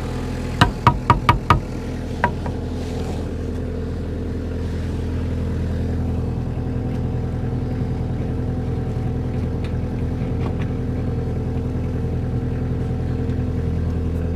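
An engine idling steadily, with five sharp knocks in quick succession a little after the start and one more shortly after.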